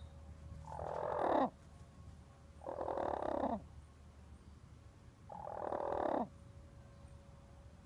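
A bird giving three drawn-out, raspy calls about two seconds apart, each lasting about a second, growing louder and dropping in pitch as it ends.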